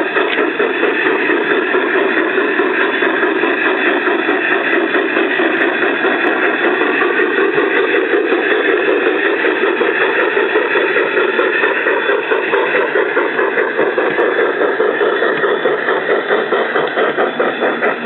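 Phoenix Sound PB11 steam sound board in an Aristo-Craft C-16 model locomotive playing steady steam chuffing through its small speaker, mixed with the clatter of the model train's wheels on the track. The sound keeps a fast, even rhythm throughout.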